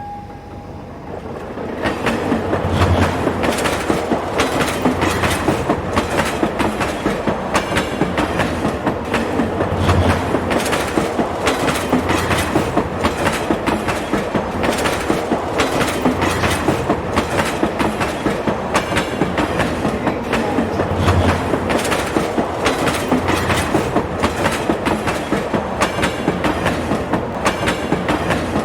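Train running along the track, with the wheels clicking over rail joints in a rhythm over a steady rumble. It grows louder about two seconds in, then holds steady.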